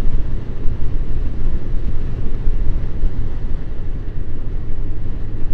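Suzuki Bandit motorcycle on the move, its inline-four engine running steadily under a dense, fluttering low rumble of wind on the microphone.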